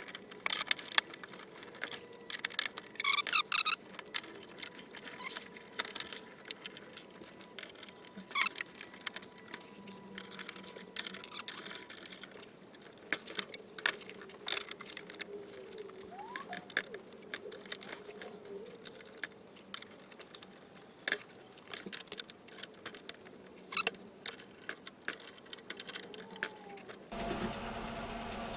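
Irregular clicks, clinks and knocks of hand-handled metal parts and tools, typical of clamping and fitting a steel door frame repair section. Near the end a steady hum starts abruptly.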